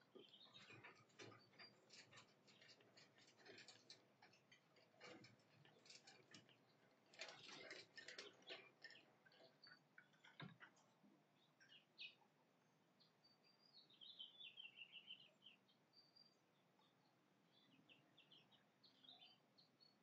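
Faint, irregular clicking and scratching in bursts through the first half, then bird chirps, with a short falling trill about fourteen seconds in and scattered chirps after.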